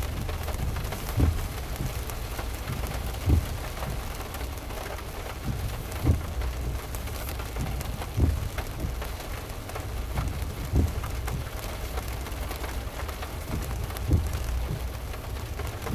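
Heavy rain hitting a moving car, an even patter over a steady low rumble, with dull low thumps every two to three seconds.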